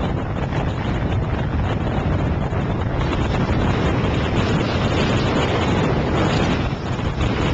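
Gale-force blizzard wind, about 60 knots, buffeting the microphone in a steady, heavy rumble with blowing snow hissing over the ground.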